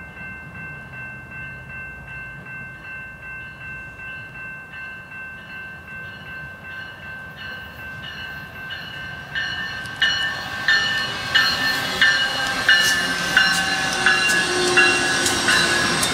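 Level-crossing bell ringing at an even rate. From about ten seconds in, the Loram rail grinder train passes close by and its wheels clack loudly and rhythmically over the rail joints. The grinder is only travelling, not grinding.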